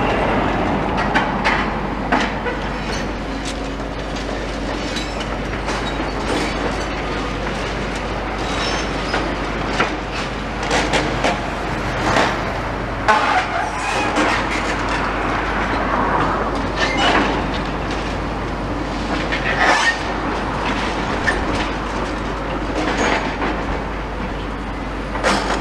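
Demolition excavator at work on a building: its engine runs steadily under repeated irregular crunches, clanks and knocks of concrete and metal being broken and dropped.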